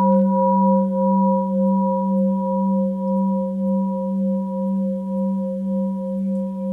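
Tibetan singing bowl ringing on after being struck: a steady low hum with several higher overtones, slowly fading with a gentle, regular wavering in loudness.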